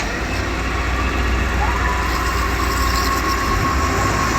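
Concrete pump's heavy engine running steadily with a deep hum; a steady whine comes in about one and a half seconds in.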